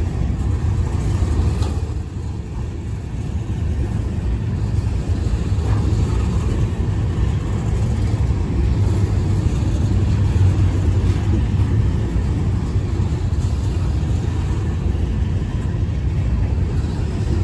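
BNSF covered hopper cars of a freight train rolling past: a steady low rumble of steel wheels on the rails.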